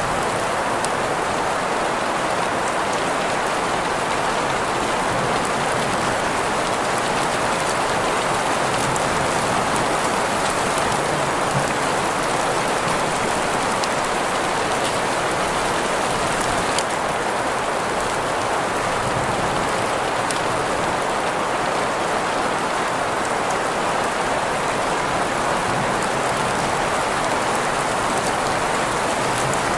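Steady rain blended with green noise: an even, unbroken hiss with faint scattered drop ticks.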